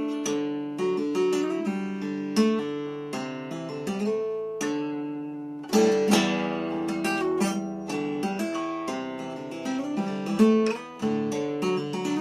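Acoustic guitar with freshly changed strings being played: plucked notes and chords that ring on, with a loud strummed chord about six seconds in.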